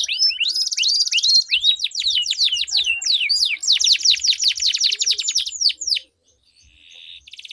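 Domestic canaries singing: long, fast rolling trills mixed with quick downward-sweeping whistled notes. The song breaks off abruptly about six seconds in, and a softer trill starts up near the end.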